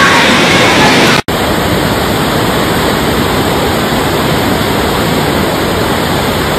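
Torrential rain pouring down in a steady, loud rush. It cuts out for an instant about a second in and resumes.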